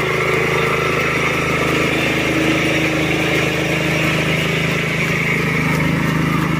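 Tractor engine running steadily at an even speed, a constant drone with no change in pitch.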